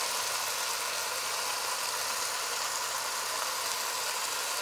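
Chicken pieces sizzling steadily in hot oil in a pot as they brown: an even frying hiss.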